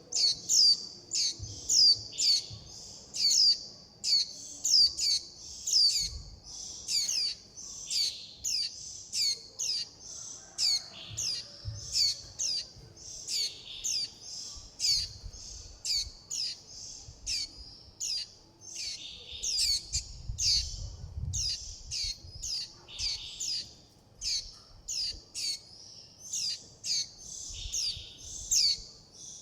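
Young white-eyes calling without pause: short, thin, high chirps repeated about twice a second. These are the begging and flock-contact calls of fledgling white-eyes.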